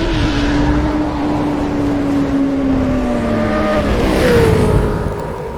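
Sport motorcycle engine under way, its note sagging slowly, then dipping and rising sharply about four seconds in as the rider gets on the throttle, with wind rush over the microphone.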